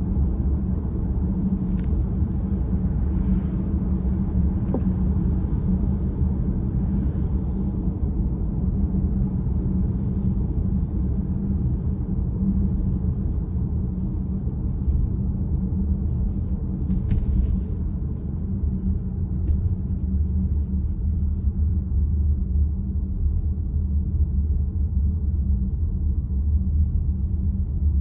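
Steady low road-and-engine rumble inside a moving car's cabin, with a few faint clicks about 2, 4 and 17 seconds in.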